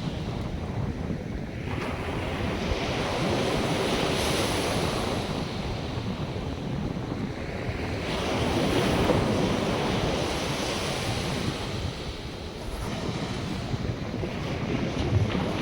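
North Sea surf breaking and washing onto a sandy beach, swelling and easing in slow surges, with gusts of wind buffeting the microphone.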